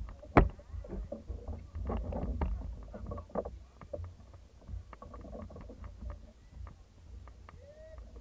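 Thai racing long-boat crew paddling: many irregular paddle splashes and knocks against the hull over a low rumble.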